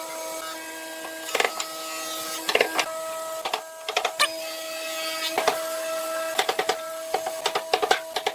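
A small machine running with a steady whine, broken several times by bursts of rapid mechanical clicking at about eight clicks a second.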